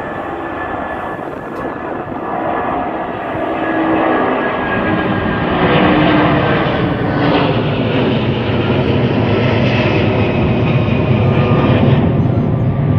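Aircraft engines of a passing airliner, a steady loud rush with a faint whine, growing louder and deeper about five seconds in.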